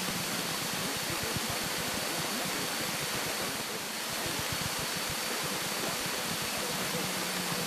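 Steady cabin noise of a Cessna 172K in flight: an even rushing hiss with a faint, constant high whistle and a low hum.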